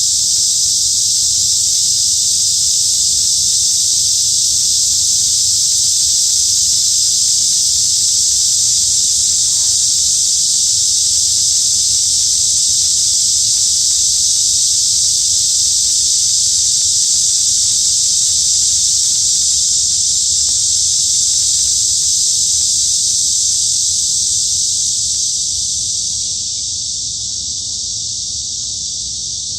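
Cicadas in summer trees singing in one continuous, steady high buzz, easing off a little near the end.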